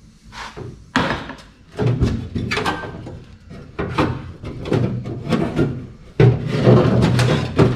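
Metal clunks and clicks of a Chevy truck door latch assembly being handled and worked by hand, a series of sharp knocks at uneven spacing, busiest in the last couple of seconds.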